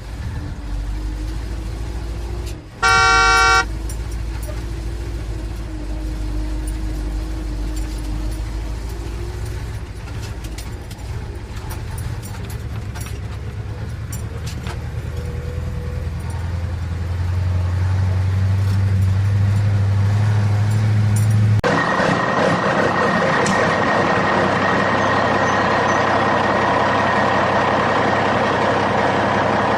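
A vehicle horn honks once, briefly, about three seconds in, over a steady low engine drone. Near the end the sound cuts abruptly to a louder, hissier mechanical running noise.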